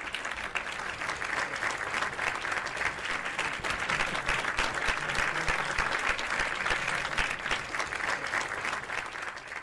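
Steady applause from a crowd, a dense patter of many hands clapping that cuts off suddenly.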